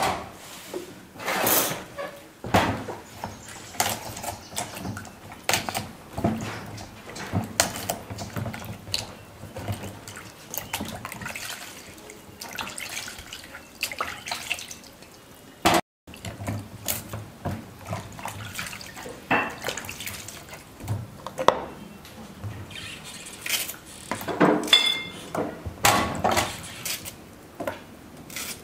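Water splashing as cooking plantains are washed by hand, with irregular splashes and knocks of the fruit and hands in the water.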